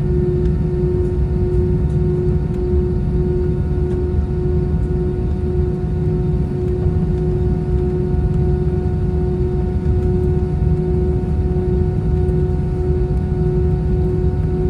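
Cabin sound of an Airbus A320-214 with its CFM56 engines at idle before takeoff: a steady low rumble with a constant droning tone and its overtones.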